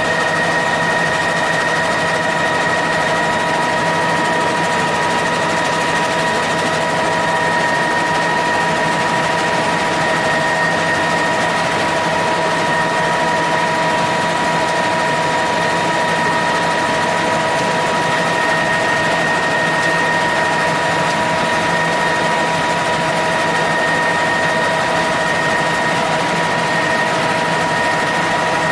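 Helicopter in flight: a steady engine and rotor drone with a constant high whine.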